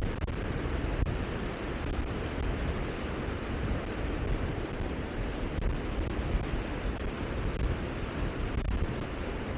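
Steady rushing noise of wind and sea, with wind buffeting the microphone as a fluctuating low rumble.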